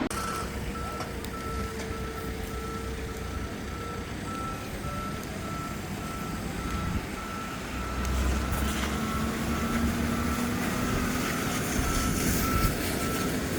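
A truck's reversing alarm beeping steadily at an even pace, over the low running of a truck engine that grows a little louder about eight seconds in.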